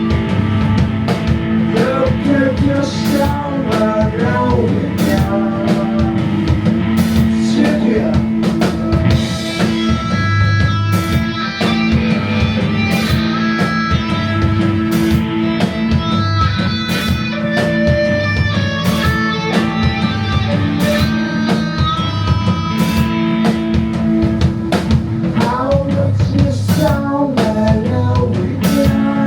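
Psychedelic rock band playing live: drum kit keeping a steady beat under a bass line, electric guitar and long held notes from an electric violin.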